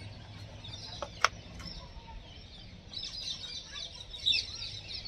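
Birds chirping in the background, strongest in the second half, with a single sharp click about a second in.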